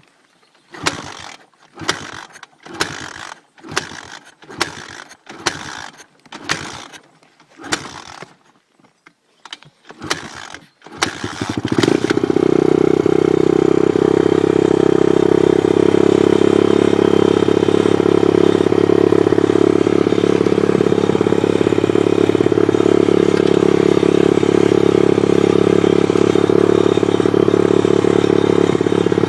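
Pit bike engine turned over in about ten short strokes that fail to fire. It then catches about eleven seconds in and runs steadily.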